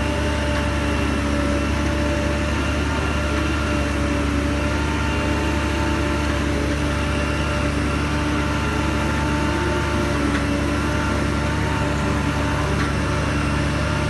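Heavy diesel engine of earth-moving machinery running steadily at a constant speed: a low rumble with a steady hum of several tones and no revving or impacts.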